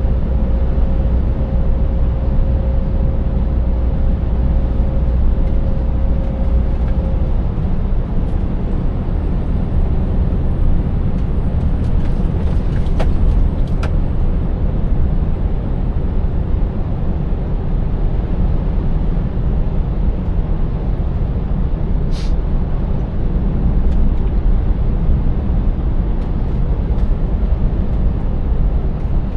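Scania 590S truck's 16-litre V8 diesel running steadily at road speed, with a constant low drone and road noise. A steady tone sounds over it and stops about seven seconds in, and a few short clicks come through around the middle.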